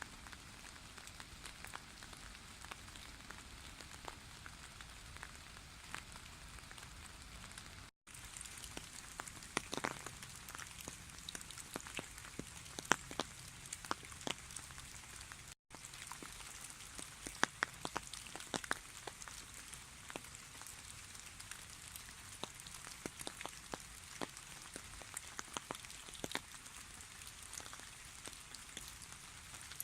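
Light drizzle in a birch forest: a soft, steady hiss of rain with frequent sharp drops ticking. The sound breaks off for an instant twice.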